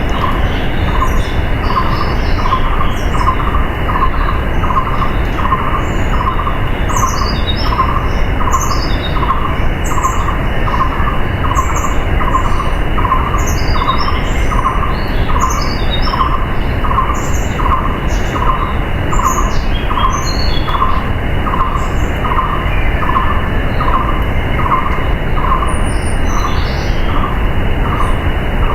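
Steady rush of a waterfall with birds chirping over it, and a regular pulsing call repeating a little more than once a second.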